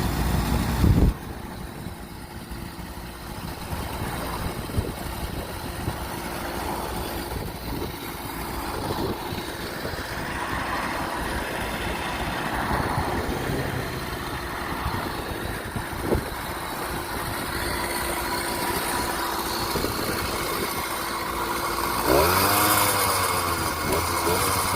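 80cc two-stroke motorized bicycle engine idling steadily, then revved several times near the end, its pitch rising and falling. A loud low rumble fills the first second, and a few short knocks sound along the way.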